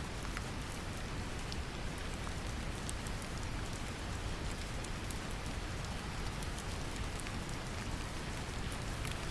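Brown noise, a steady deep rumbling hiss, mixed with gentle rain, with scattered drop ticks over it.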